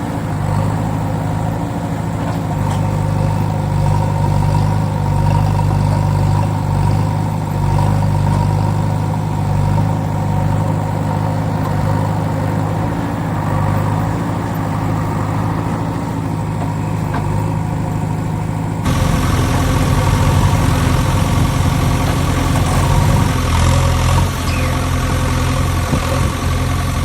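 Steady idling engine sound, running evenly, with an abrupt change in its tone about two-thirds of the way through.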